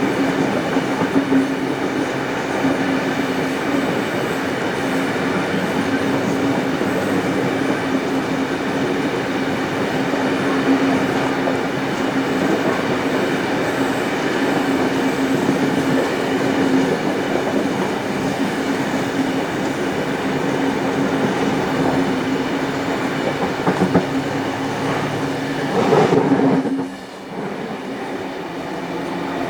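Heritage passenger train running along the track, heard from on board: a steady rumble of wheels on rail with a constant hum and some clickety-clack. Near the end it swells briefly louder, then drops suddenly to a quieter run.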